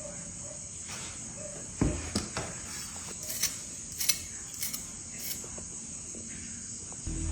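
Steady high-pitched chirring of crickets, with a handful of sharp knocks and clicks between about two and five seconds in.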